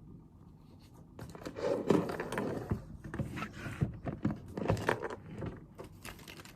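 Rustling and scraping of things being handled on a desk, with several sharp knocks among them, starting about a second in and dying away near the end.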